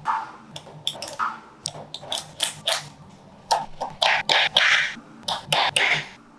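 Small magnetic balls clicking and clattering together as they are snapped into place, in quick irregular clicks with a few longer rattling scrapes.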